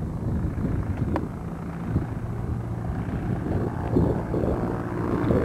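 Light aircraft's propeller engine running steadily with a low hum, under wind buffeting the microphone.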